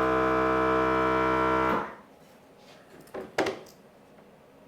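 Small portable air compressor running with a steady, many-toned hum, then shutting off abruptly about two seconds in as its pressure switch cuts out. A couple of light knocks follow about a second later.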